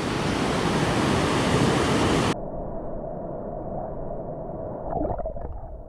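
Steady rush of flowing river water that turns abruptly muffled and quieter a little over two seconds in.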